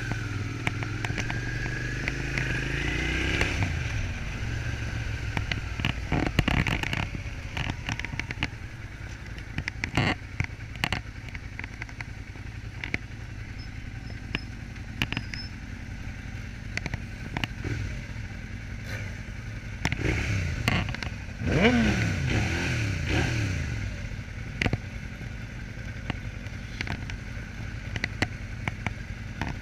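Suzuki SV650S's V-twin engine running under way, rising in pitch over the first few seconds and revving up and down again about twenty seconds in, over a steady low rumble. Frequent sharp clicks and crackles are scattered through it.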